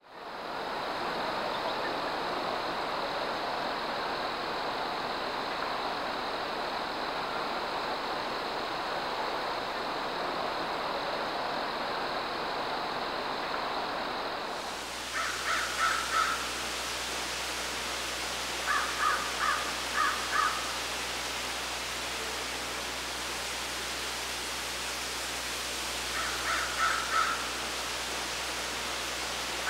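A steady outdoor hiss, then a bird calling in quick runs of about five short, harsh notes. The runs come four times in the second half.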